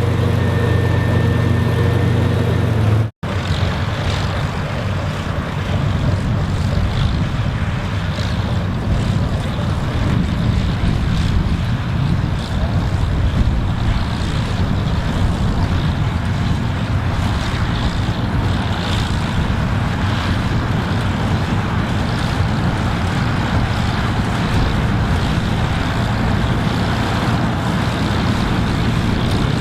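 Farm machinery engine running steadily, with an even engine note for the first few seconds. After a brief dropout it becomes a rougher, noisier mechanical rumble with wind on the microphone.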